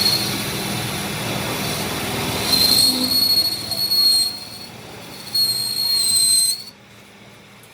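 Steady metalworking machine noise, with a high-pitched metal squeal twice: the first from about two and a half seconds in, lasting nearly two seconds, and the second shorter, about five and a half seconds in. Both sound cuts off suddenly near the end.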